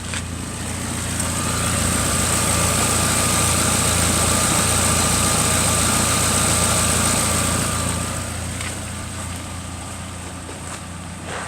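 Ford Transit engine running, getting louder about a second in, holding steady for several seconds, then easing back near the end, with a high whine over the engine note.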